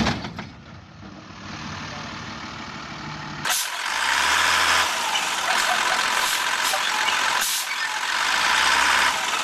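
Heavy truck noise: a quiet low running sound, then about three and a half seconds in a louder steady rushing noise takes over.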